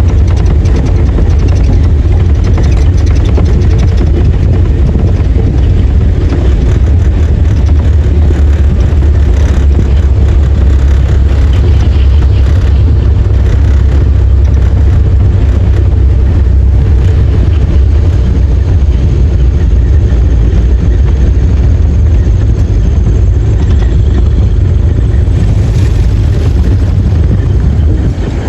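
Heavy diesel engine running steadily with a deep, loud rumble.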